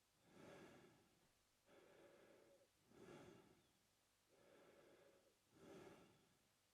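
A man breathing slowly and steadily through his mouth, faint. A longer, quieter breath alternates with a shorter, louder, hissier one, about one full breath every two and a half seconds.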